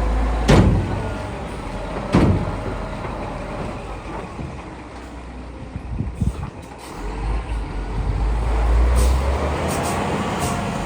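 Scania R480 dump truck's diesel engine running, with two sharp hisses of air, about half a second and two seconds in. The engine grows louder over the last few seconds.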